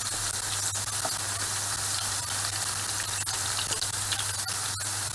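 Carrot slices sautéing in hot oil in a frying pan: a steady sizzle with a few sharp pops.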